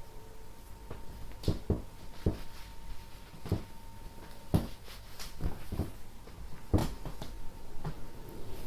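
A series of short, irregular clicks and soft knocks, about eight of them at uneven intervals, over a faint steady hum.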